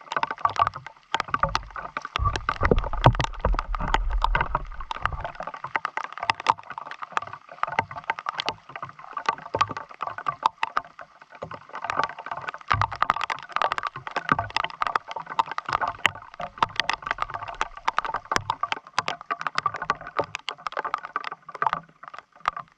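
Wind gusting against the microphone for the first few seconds, over a dense, irregular patter of small clicks and splashes of water.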